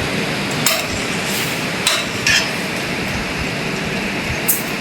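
Four sharp knocks, spaced irregularly, over a steady background hiss.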